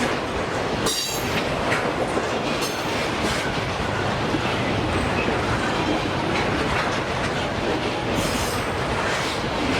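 Freight train cars rolling past with a steady rumble and clatter of wheels on the rails. Short high-pitched wheel squeals come about a second in and again near the end.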